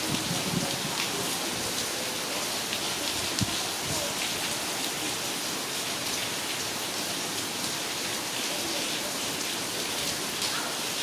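Heavy rain falling steadily, with scattered drip ticks and a single low thud about three and a half seconds in.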